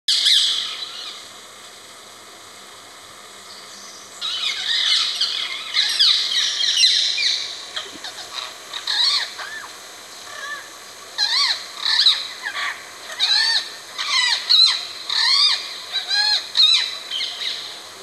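Forest birds calling and chirping, several overlapping voices with quick notes that rise and fall in pitch. A burst of calls comes at the start, then a lull, then a dense run of calls, then repeated rising-and-falling phrases.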